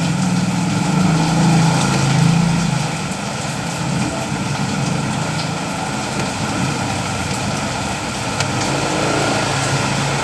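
Steady rain falling, an even hiss, with a low droning hum underneath that is strongest in the first few seconds.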